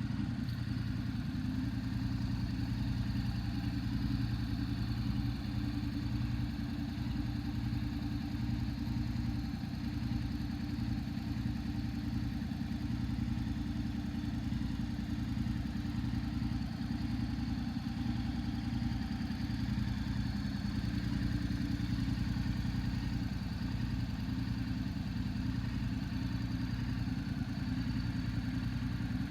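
Honda NC750S DCT's parallel-twin engine idling steadily, a low, even rumble with no revs.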